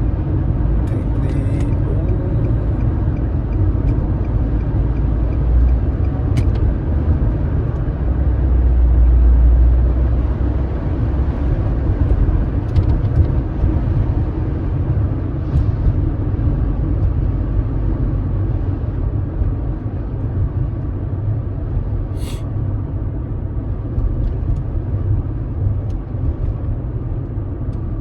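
Car driving noise heard from inside the cabin: a steady low engine and road rumble that swells about eight to ten seconds in, with a couple of brief clicks.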